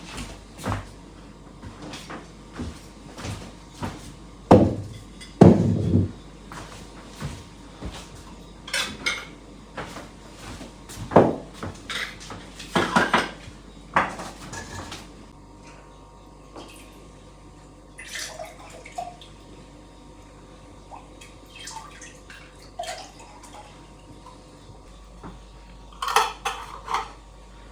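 Clatter of kitchenware being handled: irregular knocks and clinks, the loudest a few seconds in and again near the end.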